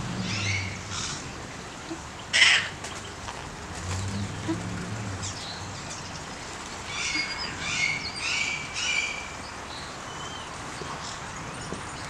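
Birds chirping: a few short high calls near the start, a sharp, loud sound about two and a half seconds in, and a run of four chirps between about seven and nine seconds in.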